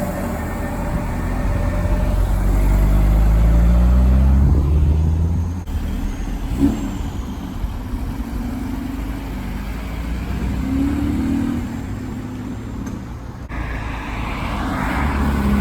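Cars driving past one after another. A deep engine rumble builds, peaks about four seconds in and fades, then another car's engine revs up near the end.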